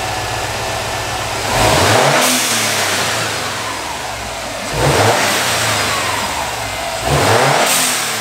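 Subaru WRX STI's turbocharged flat-four idling and revved three times. Each rev falls away with a short hissing whoosh from the newly fitted Turbosmart Kompact blow-off valve venting.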